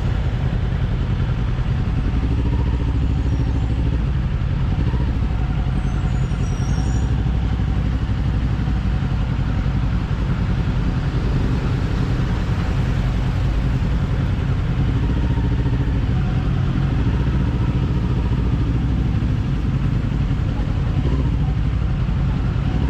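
Kawasaki parallel-twin motorcycle engine running steadily at a cruise, with a constant low exhaust note and no big revs or gear changes.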